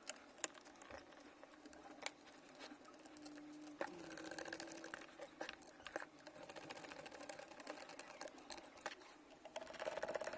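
Faint, rapid clicking and scraping of a screwdriver tightening screws into a cordless vacuum cleaner's plastic housing.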